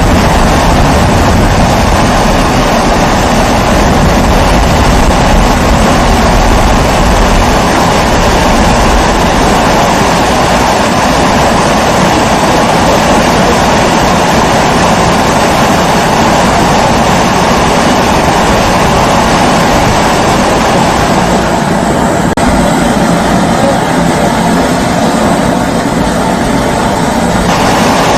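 Kerosene pressure stove (babour, Primus-type) burner running with a steady roar. The higher hiss thins for a few seconds about three quarters of the way through.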